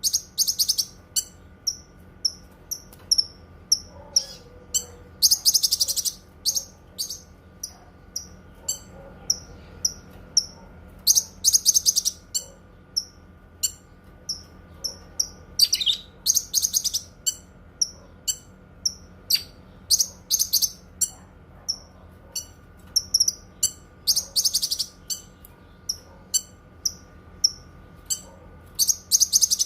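Cucak kinoi songbird singing: a run of short high chirps about twice a second, broken every five or six seconds by a brief rapid trill.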